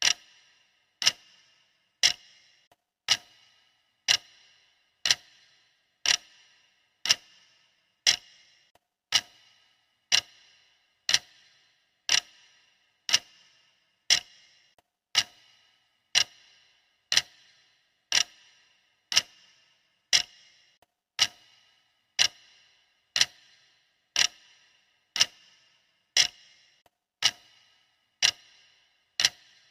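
Clock ticking steadily, one tick a second, each tick a sharp click with a brief high ring after it.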